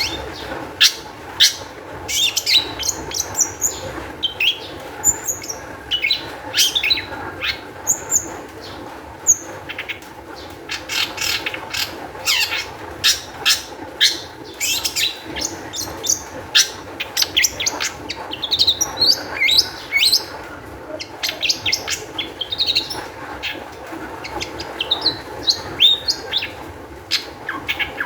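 Long-tailed shrike (cendet) singing in a fast, agitated run of sharp, clicky notes mixed with short whistled slurs, almost without pause. This is the high-arousal song used to provoke other shrikes into singing.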